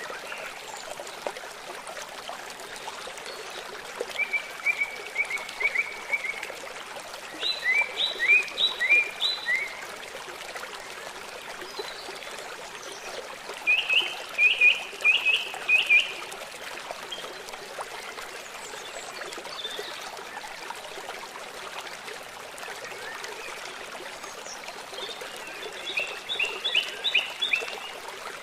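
Stream or river water running steadily, with a bird singing four phrases of quick repeated high notes, each about two seconds long, over the water.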